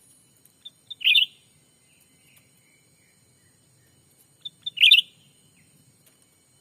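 Cucak ranting calls: twice, a couple of short pips run into a quick, loud chattering burst, about four seconds apart, with fainter notes after each.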